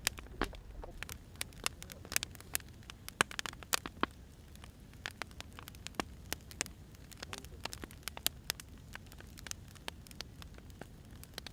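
Burning firewood crackling, with irregular sharp pops and snaps over a faint low rumble.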